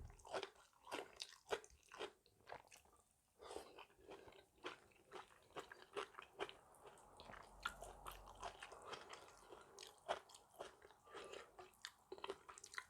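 Faint, close-up chewing and crunching of food in a person's mouth: many small, irregular crunches and clicks.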